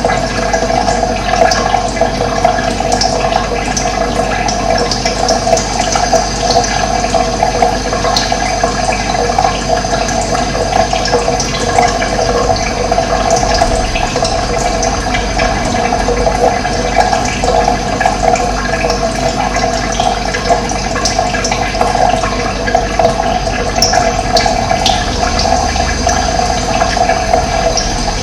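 Running water flowing steadily with a full gurgling rush, with occasional faint high bird chirps over it.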